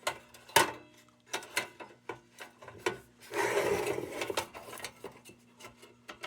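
A tin Dietz Blizzard lantern being handled: a few light metal clinks and knocks, and a rubbing scrape lasting about a second near the middle.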